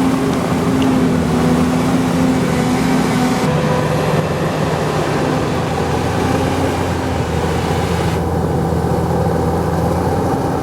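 A steady engine hum. Its pitch shifts down about three and a half seconds in, and the sound turns duller about eight seconds in.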